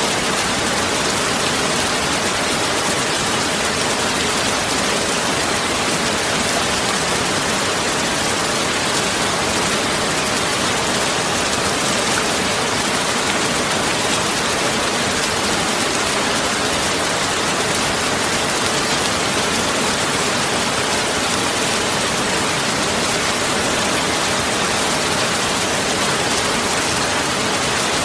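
Steady heavy rain: a dense, even hiss with no breaks and no thunder.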